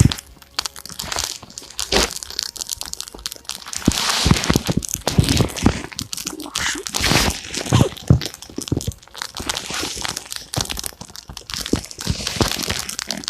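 Irregular crunching and sharp cracking from firewood being handled and snapped and fed onto a campfire in snow.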